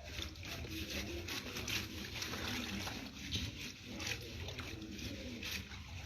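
Water sloshing and splashing, with many small irregular knocks and rubs throughout.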